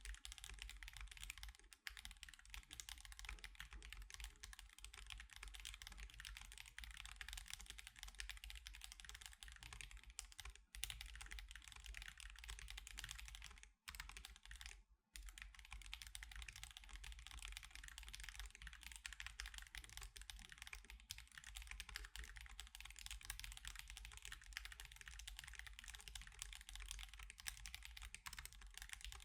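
Continuous fast typing on an Akko Alice Pro mechanical keyboard fitted with Akko CS Crystal switches and osumekeys Sakura + Mochi keycaps, a steady stream of keystrokes with two short breaks about halfway through.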